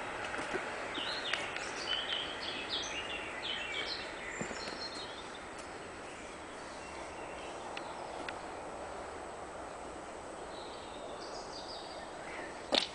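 Outdoor ambience: a steady background hiss, with a songbird singing a run of short high chirps during the first few seconds and again briefly near the end. A single sharp click comes near the end.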